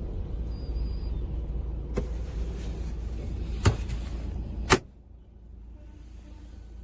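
Steady low rumble of a vehicle with a few sharp clicks. A loud knock about four and a half seconds in cuts the rumble down to a faint hum.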